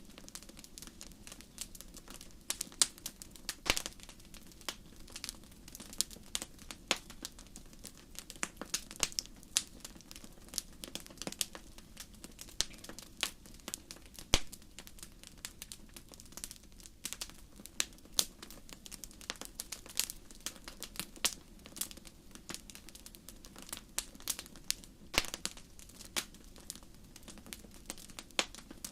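Wood fire crackling: irregular sharp pops and snaps, several a second and varying in loudness, over a faint steady low hum.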